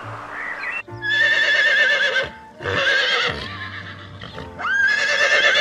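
Horse whinnying: a loud, wavering neigh about a second in, a shorter one after a brief break, and a third that rises in pitch near the end.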